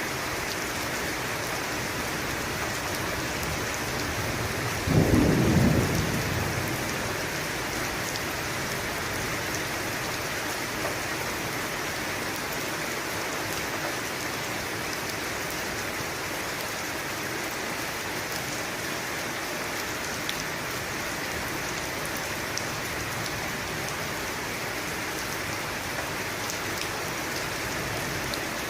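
Steady heavy rain falling, with one short clap of thunder rumbling about five seconds in.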